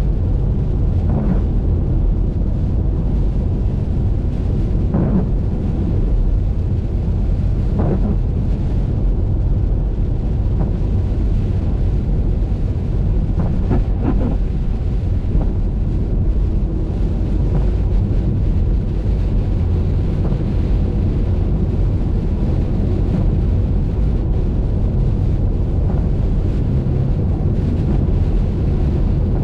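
Steady low rumble of a car driving on a highway in the rain, road and wind noise, with a few faint brief swishes in the first half.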